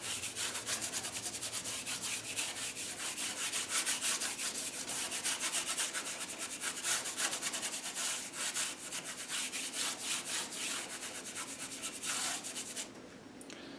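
Large bristle brush scrubbing acrylic paint across canvas in rapid back-and-forth strokes, blending a sky gradient. The brushing stops about a second before the end.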